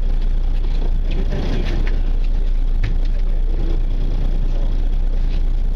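Fishing party boat's engine running steadily, a constant low rumble with faint voices in the distance.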